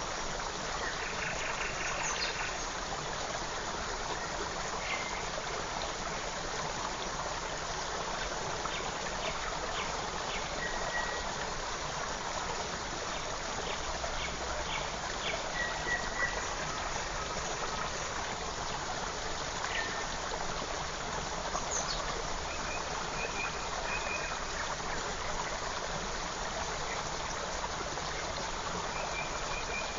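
A forest creek running steadily, with short, high bird chirps and trills now and then above the water.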